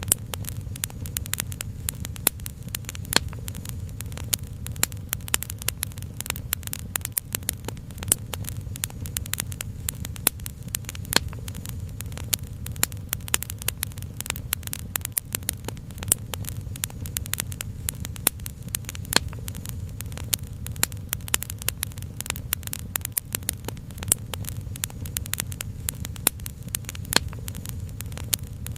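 Wood fire crackling: a dense, irregular run of sharp pops and snaps, a few louder than the rest, over a steady low rumble.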